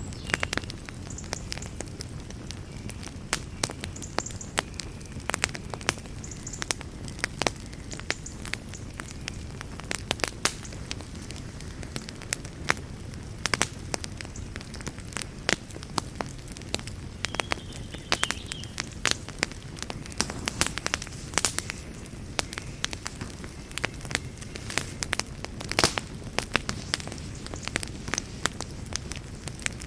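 Campfire crackling: frequent sharp pops and snaps at irregular intervals over a low, steady noise of burning.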